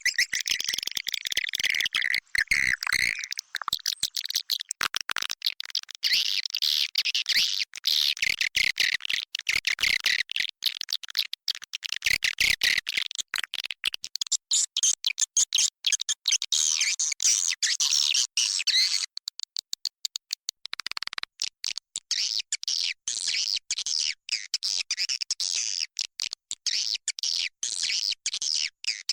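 Recorded swiftlet calls used as a lure sound for a swiftlet house: a dense, rapid chatter of high chirps and clicks from many birds. It thins briefly about two-thirds of the way through.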